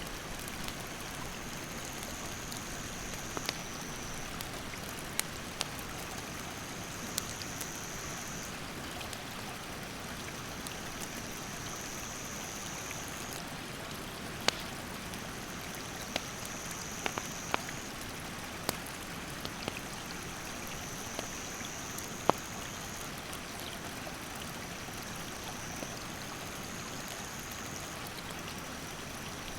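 Steady rush of a mountain stream, with sharp crackles and pops from a wood campfire every few seconds. An insect calls in a high, even note in spells of a second or two, over and over.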